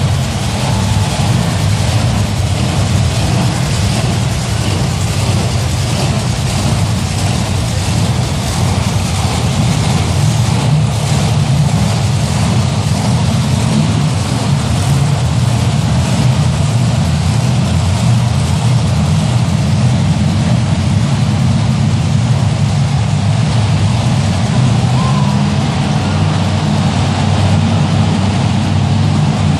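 Monster truck engines running loud and steady, a deep low rumble with a haze of noise over it.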